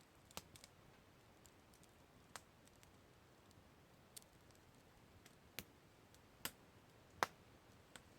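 Campfire crackling: a few scattered sharp pops and snaps over a faint hiss, with one louder snap near the end.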